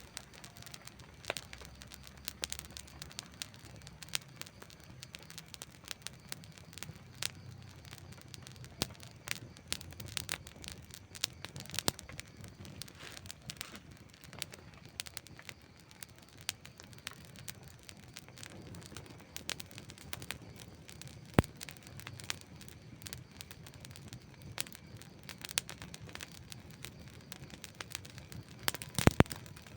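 Campfire burning with irregular crackles and sharp pops over a low steady rumble of the flames, one loud pop about two-thirds of the way through and a quick cluster of loud pops near the end.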